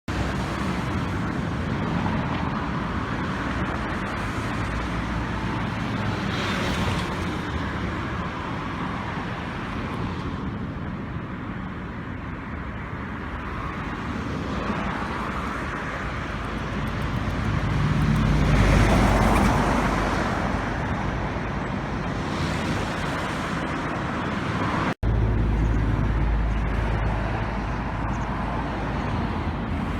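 Steady roar of typhoon wind and rough, swollen water, with a heavy low rumble. It swells twice, around seven seconds in and more strongly around nineteen seconds, and drops out for an instant about twenty-five seconds in before carrying on.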